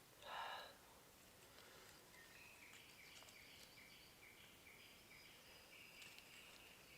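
Faint woodland birdsong: a bird repeats short notes at about two a second, alternating between two pitches. About half a second in, a single brief, louder call is heard.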